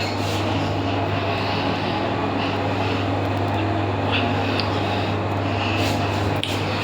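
Old passenger lift car travelling upward, heard from inside the car: a steady low hum and rumble of the running lift, with a faint click near the end.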